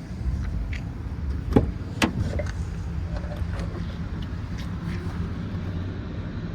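Pickup truck engine idling with a steady low rumble, with two sharp clicks about a second and a half and two seconds in.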